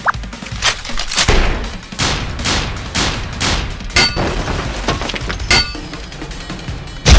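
Added battle sound effects: a string of gunshot- and blast-like bangs and impacts, some with a short metallic ring, coming irregularly about every half second to second. The loudest bang comes at the very end.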